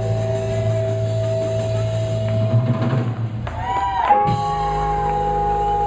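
Live blues band playing the closing bars of a song: held chords over drums, with one note bending down and back up a little after halfway before the band settles onto a new held chord.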